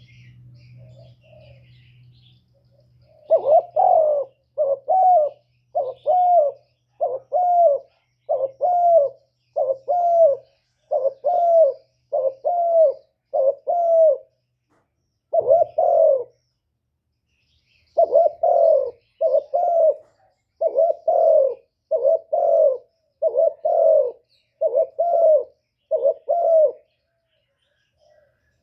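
Spotted dove (cu gáy) giving the repeated 'gù' coo: a long series of short, low coos at about one a second, each with a slight rise and fall. The series is broken by two short pauses partway through.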